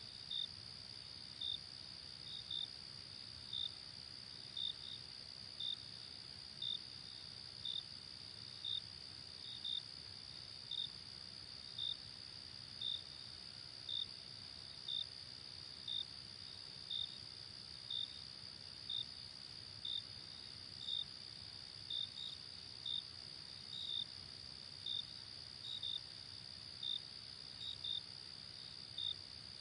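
Crickets chirping at night: a steady high trill with a single chirp repeating about once a second, some in quick pairs, over a faint low hum.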